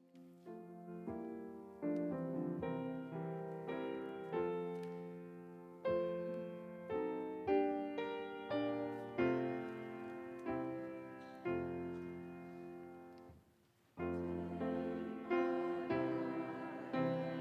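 Solo piano playing a slow piece in struck chords that ring and fade, about one a second. There is a brief pause about three-quarters of the way through, then the playing is louder.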